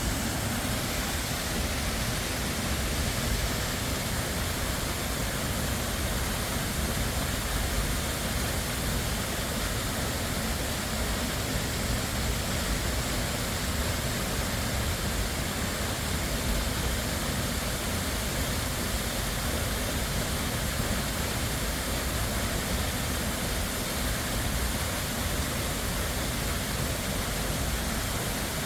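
Waterfall rushing, a steady even roar of falling water with no let-up.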